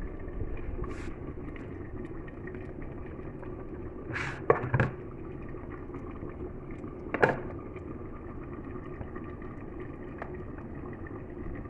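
Pot of food simmering on the stove, a steady bubbling hiss, with sharp clinks of a utensil against the pot about four to five seconds in and again about seven seconds in.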